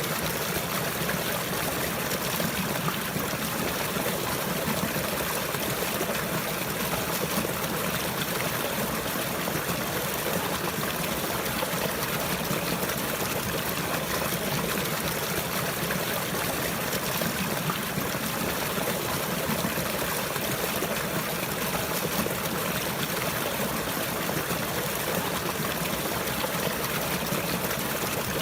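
Continuous running water, a steady, even rush with no breaks or separate splashes.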